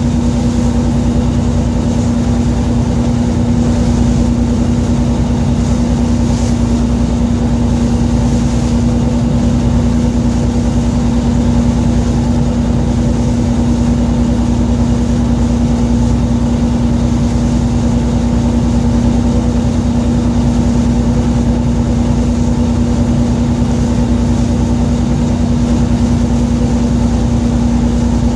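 Fishing boat's engine running steadily: a constant low rumble with a strong, even hum.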